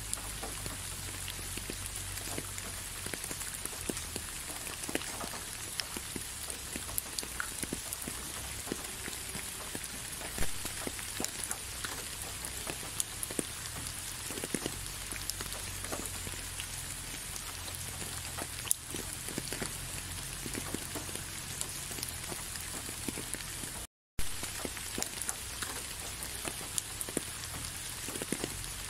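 Steady rain falling, an even hiss with many scattered drops ticking close by and a low rumble underneath. It cuts out for a split second near the end.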